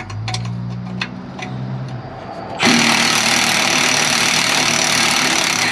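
A power tool runs loudly for about three seconds, starting abruptly about two and a half seconds in and cutting off sharply, after a low steady hum. It is being used to break loose a stuck exhaust bolt.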